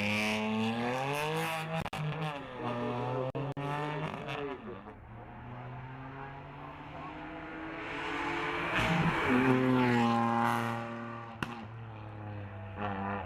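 Racing car engine revving hard, its pitch climbing and dropping again and again as it shifts and brakes. It grows loudest about nine seconds in as it passes close, then carries on more quietly.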